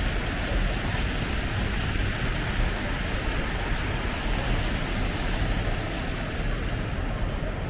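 Steady city street noise, a constant rumbling hiss with no distinct events standing out.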